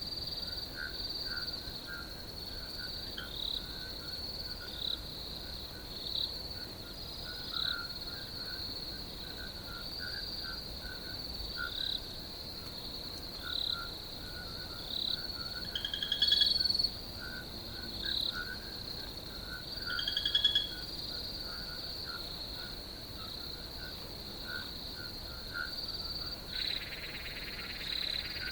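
Crickets trilling steadily in a high continuous chorus, with many shorter irregular calls chirping lower beneath them. Two louder calls stand out around the middle, and a second hissing insect chorus joins near the end.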